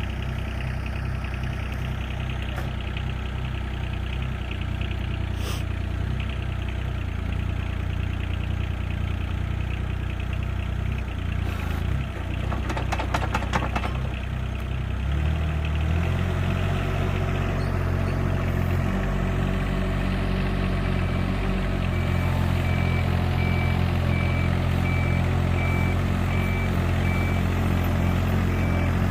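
Mini excavator engine running at idle, then revving up to a higher, steadier speed about halfway through, with some clattering just before. A high repeating beep, like a travel or backup alarm, starts about three-quarters of the way in.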